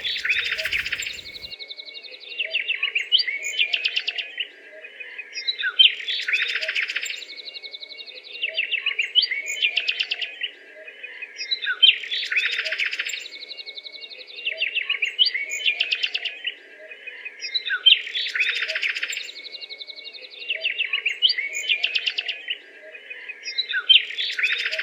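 Birdsong: bursts of rapid chirping trills that repeat in the same pattern about every six seconds, like a looped recording.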